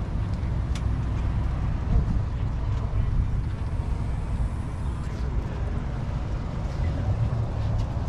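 A car engine running with a steady, deep exhaust rumble, with low voices of a crowd faintly behind it.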